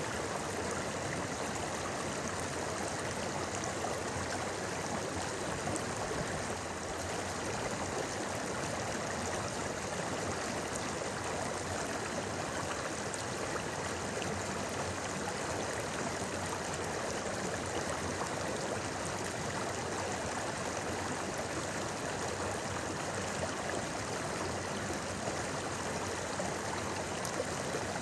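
A clear river flowing over rocks, a steady babbling and rushing of water.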